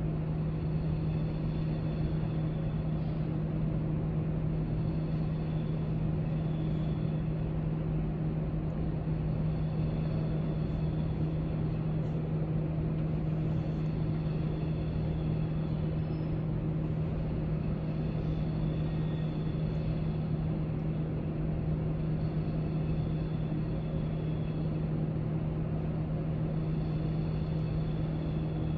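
Steady library background noise: a constant low hum under an even rush, with a few faint ticks about halfway through.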